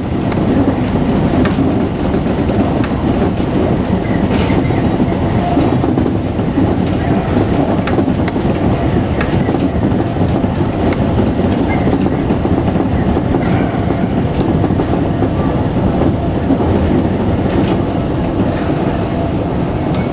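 Electric commuter train running along the track, heard from inside the leading car: a steady rumble of wheels and running gear with occasional sharp clicks.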